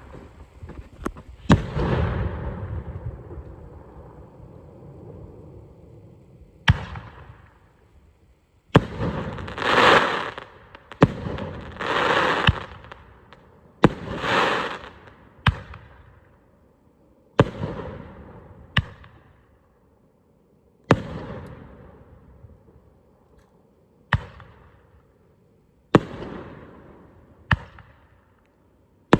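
Firework shells firing one after another from a 10-shot mortar rack: a string of sharp booms, from about a second to a few seconds apart, each launch and burst trailing off, with three swelling hisses near the middle.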